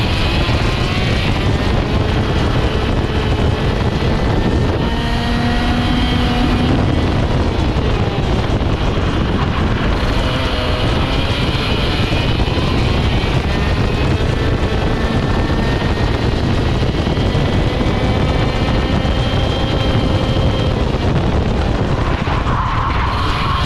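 Vortex ROK GP two-stroke kart engine running hard on track, its pitch repeatedly climbing and dropping as the revs rise down the straights and fall into the corners, with wind rushing over the microphone.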